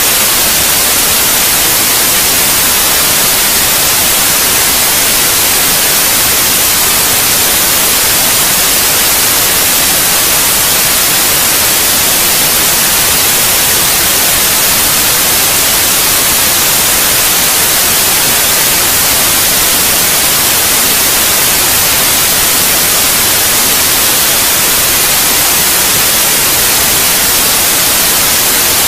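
Steady white noise: an even, unchanging hiss, loudest in the high register, played as a sleep aid for babies.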